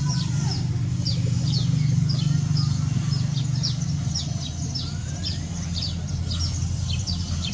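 Small birds chirping, a busy run of short falling chirps several times a second, over a steady low rumble.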